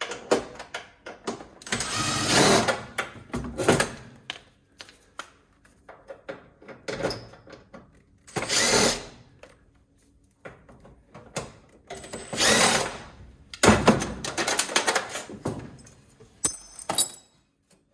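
Power screwdriver running in several short bursts of about a second each, backing screws out of a gas water heater's casing, with clicks and clatter of metal and plastic parts between the bursts.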